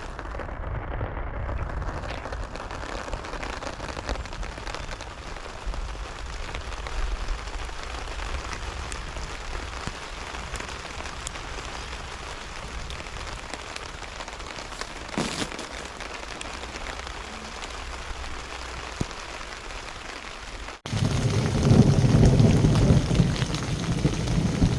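Steady rain falling. About 21 seconds in, the sound changes abruptly to a louder, deep rumble of thunder.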